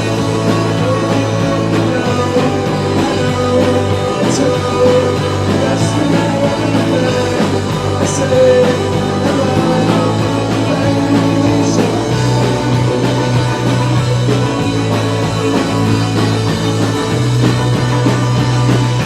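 Rock band playing live, guitar over a heavy, sustained low bass line.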